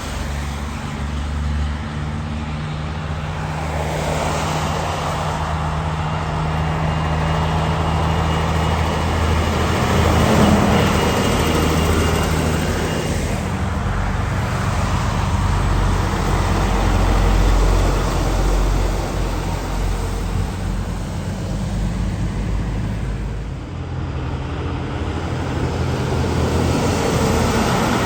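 Road traffic with heavy trucks driving past, their diesel engines giving a low, steady drone that swells and fades as they go by.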